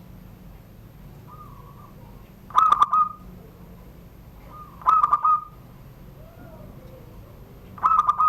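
Zebra dove (perkutut) singing in the 'surung gdor' song style. Three short, loud phrases of rapid pulsed coos come about two and a half seconds apart, with a softer note before the first.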